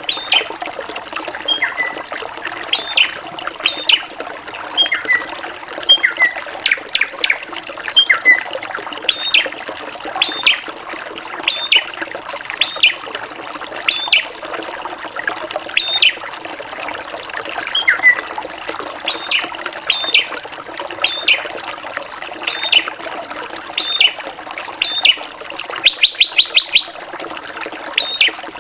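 Drongo singing: short, sharp whistled calls repeated about once a second in varied notes, with a quick rapid-fire run of calls near the end, over a steady background hiss.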